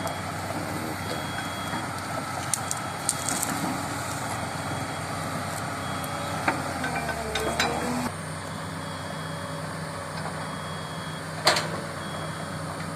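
Crawler excavator travelling across swampy, muddy ground: its diesel engine runs steadily while the tracks and undercarriage give several sharp metal knocks, a cluster about three seconds in, two more around seven seconds, and the loudest near the end.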